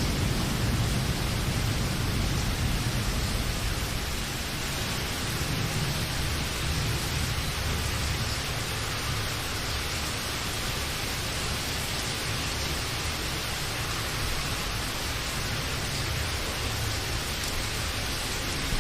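Steady heavy rain, a dense even hiss with a low rumble underneath that is a little louder in the first few seconds.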